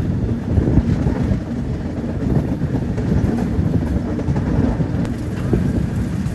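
Double-decker express train running at speed round a curve, heard from an open coach door: a steady, loud rumble with irregular clatter of wheels on the rails.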